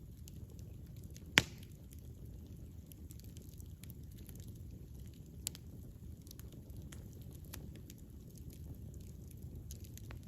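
Wood campfire burning: a low, steady rumble of flames with scattered small crackles, one sharp loud pop about a second and a half in, and a smaller pop about five seconds in.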